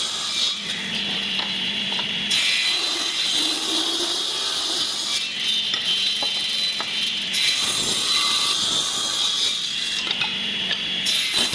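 A power tool working wood: a steady high whine under rough cutting noise, the hiss of the cut dropping away and coming back several times.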